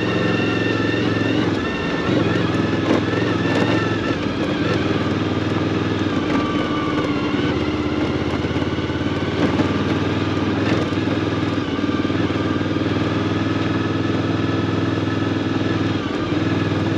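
Suzuki V-Strom motorcycle engine running steadily under way. The engine note dips briefly about six or seven seconds in.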